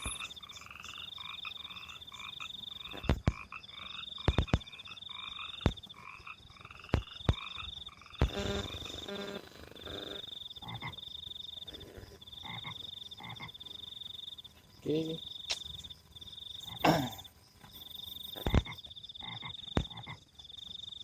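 Frogs calling from rice paddies: a pulsed trill repeated every second or two, with lower croaking calls in the first few seconds. Sharp clicks and knocks break in now and then.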